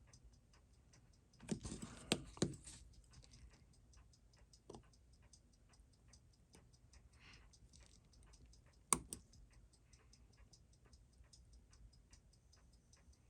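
Faint, steady, rapid ticking of a running timepiece on the watchmaker's bench, with a few small clicks and taps of handling tools and parts, the sharpest about nine seconds in.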